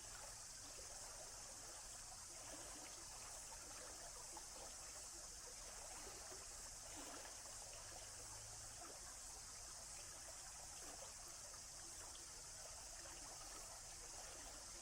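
Water of a small stream trickling and babbling steadily, faint and unbroken.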